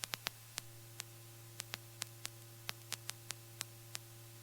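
Faint electrical hum and light static on the helicopter's intercom audio line, with about fifteen irregular sharp clicks and a faint steady tone that comes in about half a second in.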